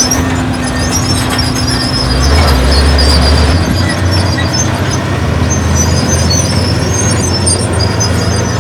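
Crawler bulldozer's diesel engine running under load, its steel tracks squealing high-pitched; the low engine rumble swells from about two to three and a half seconds in.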